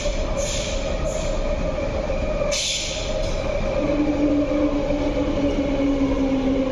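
MTR MLR electric train standing at the platform with its doors open, its onboard equipment giving a steady hum. A short burst of hiss comes about two and a half seconds in, and a second, lower hum joins about four seconds in.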